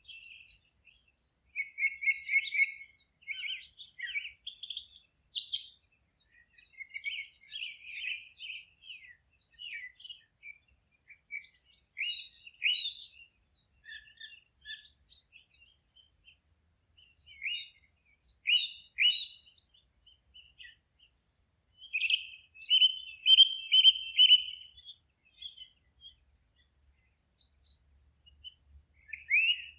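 Several songbirds singing and calling: a mix of short chirps, whistled notes and trills, with brief pauses between phrases and a longer trill a little past the middle.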